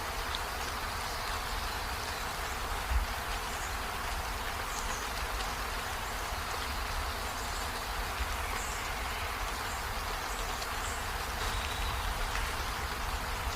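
Steady rain falling, an even hiss with a low rumble underneath and a brief thump about three seconds in.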